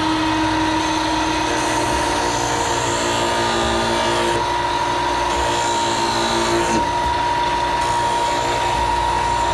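Electric power tool motor running steadily with a constant whine, working on a wooden 2x4.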